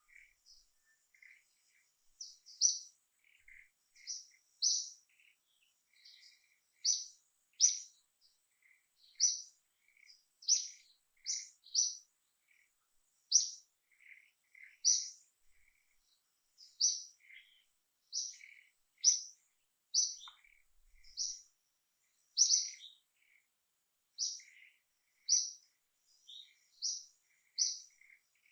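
A bird chirping over and over: short, sharp, high-pitched chirps about once a second, with fainter lower notes between them. A faint steady high tone runs behind.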